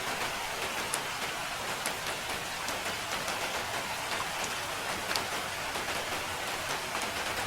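Steady rain falling, an even hiss with scattered close drops ticking through it.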